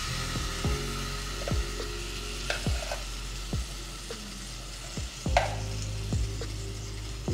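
Seasoned chicken drumsticks frying in hot oil in a cast iron skillet, a steady sizzle as the pieces are laid in with tongs. A sharp clink comes about five seconds in.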